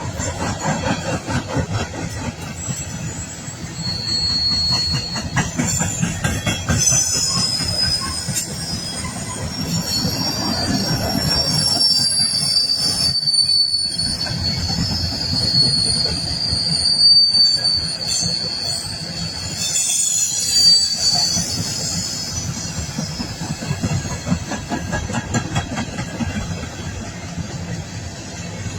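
A long coal train's cars rolling past with a continuous low rumble and clatter. For much of the time their wheels squeal at several high pitches, typical of flanges grinding through a curve.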